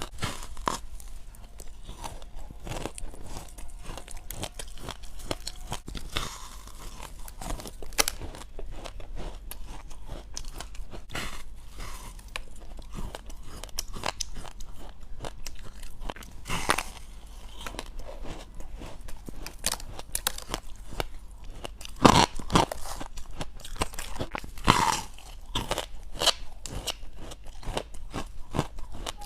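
Close-up crunching as frozen white frost ice is bitten and chewed, with a steady run of crackly chomps and a few louder bites near the end.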